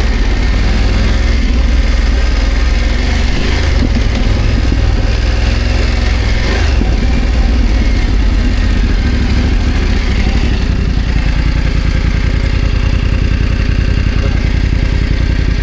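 BMW F 900 GS parallel-twin motorcycle engine running steadily off-road, with a couple of brief knocks about four and seven seconds in.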